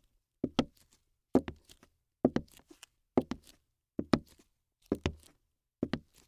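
Footsteps on a hard floor at an even walking pace, seven heavy steps a little under a second apart, each a quick double strike.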